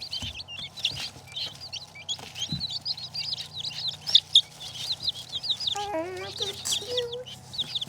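A group of baby chicks peeping continuously: a dense stream of short, high chirps. About six seconds in, a lower wavering call rises over them for about a second and a half.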